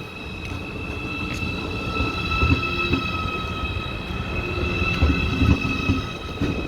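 ICE high-speed electric train pulling away, its electric drive giving a steady high whine in several tones over a low rumble, with a few irregular low thuds.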